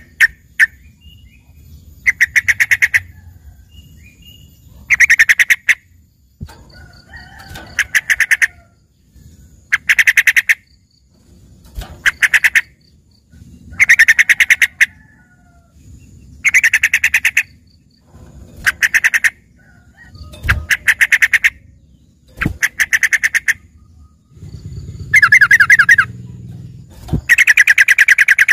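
Yellow-vented bulbul singing: short phrases of rapid chattering notes, each about a second long, repeated every two to three seconds, with a longer phrase near the end. The song is a 'filled' (isian) song, which the keeper likens to a greater green leafbird's.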